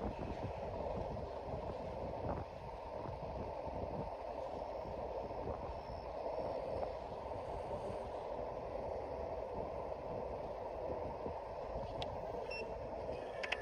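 Aovo Pro ES80 electric scooter being ridden, a steady rumbling road noise from the tyres and frame.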